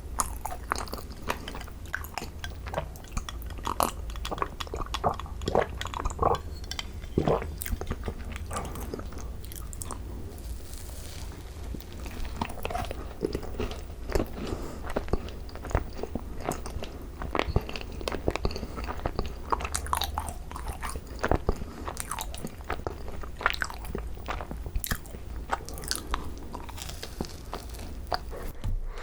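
Close-up chewing and biting of thick-filled Korean macarons (ttungcaron): irregular crisp crunches from the shells, over a low steady hum.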